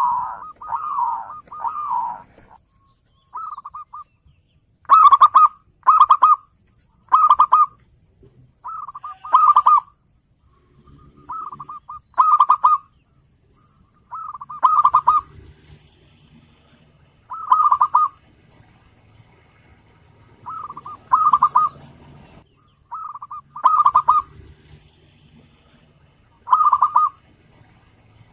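Zebra dove (perkutut) cooing: short phrases of quick coos, repeated about every two to three seconds.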